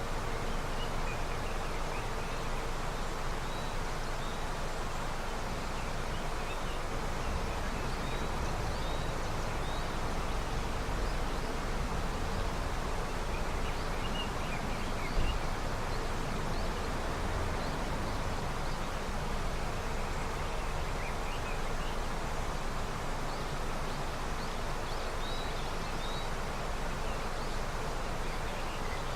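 Snowmelt river flowing with a steady, even rush of water. Faint short high chirps come through now and then, and there is one brief low thump about halfway.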